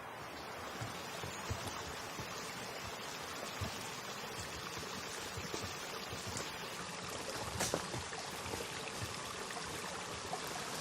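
Running water trickling and splashing steadily, with a few faint clicks and knocks over it.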